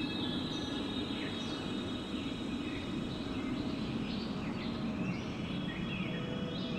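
Steady wind with birds chirping: a constant low rush of wind, with many short chirps and rising and falling calls above it.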